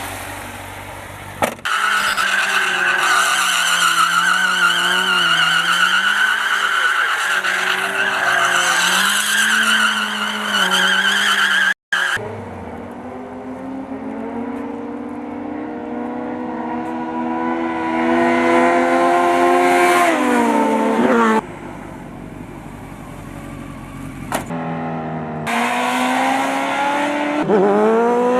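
Motorcycle engines running and revving across several clips cut together. Pitch climbs in revs about two-thirds of the way through and again near the end, and each clip is broken off by sudden cuts.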